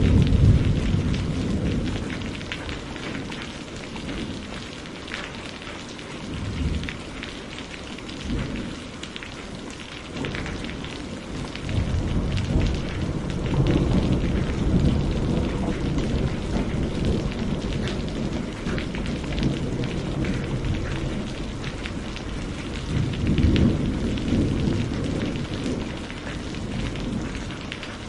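Wood campfire crackling with dense small pops and ticks, over a low rumble that swells and fades several times, loudest at the start and again around the middle.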